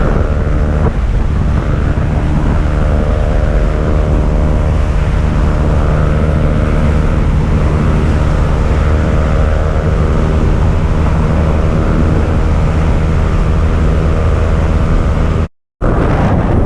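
Motorcycle engine running at a steady speed, with wind rushing over the microphone. The sound cuts out completely for a moment near the end.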